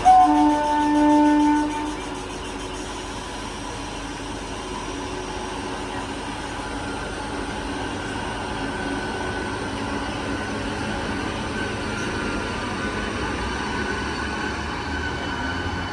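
A train horn sounds for nearly two seconds, a chord of several pitches, followed by the steady rumble of a train running on the rails.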